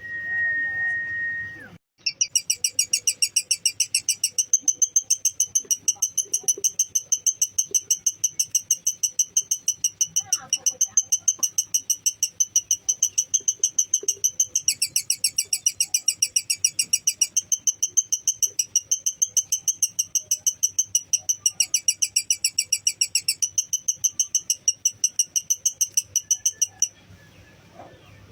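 Lovebird's long 'ngekek' song: a fast, evenly pulsed high chattering trill held for about 25 seconds without a break, dipping slightly in pitch a few times before it stops abruptly near the end. A short steady whistle-like tone comes first.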